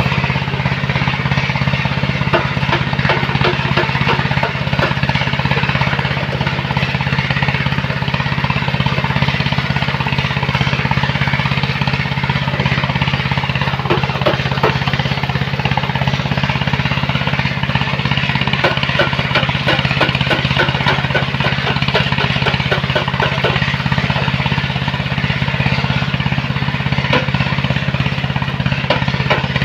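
Engine of a sand-mining machine running steadily under load, a deep constant drone with a dense, irregular clatter over it.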